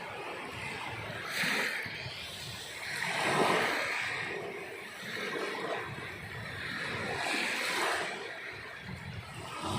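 Sea waves washing in over a steady rush of surf, swelling louder three times, about 1.5, 3.5 and 7.5 seconds in.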